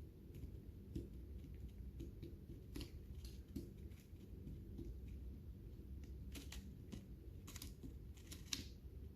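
Lovebirds cracking and eating seeds: faint, irregular small clicks and crunches from their beaks, a few coming in quick clusters.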